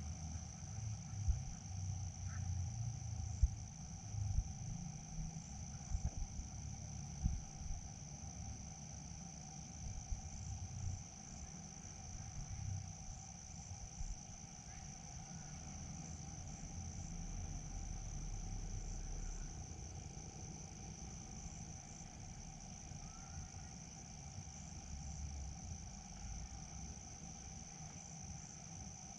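Crickets and other insects chirring steadily in a continuous high chorus, with a lower steady drone beneath. There is a low rumble, and a few sharp knocks in the first several seconds.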